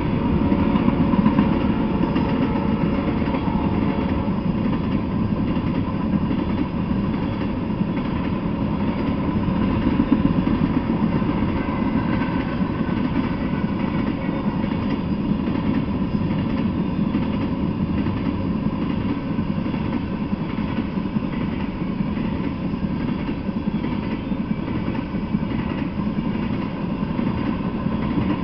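Freight train of tank cars rolling past, a steady noise of steel wheels running on the rails.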